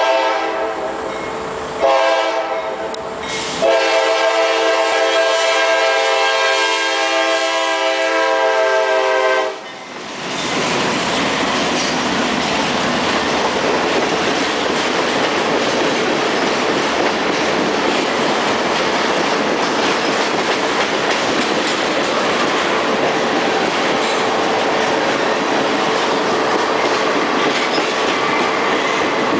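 CSX freight locomotive's air horn sounding for a road grade crossing: a few blasts, the last held about six seconds. It is followed by the diesel locomotives and a long train of tank cars rolling past close by, a steady loud rumble and rattle of engines and wheels on the rails.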